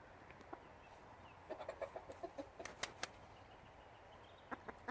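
Roosters clucking softly in a short run of low notes, with a few sharp clicks about three seconds in and again near the end.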